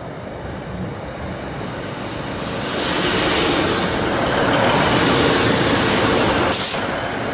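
East Midlands Railway Class 156 diesel multiple unit running past, its engine and wheel noise building about two and a half seconds in and staying loud. A short sharp hiss comes near the end.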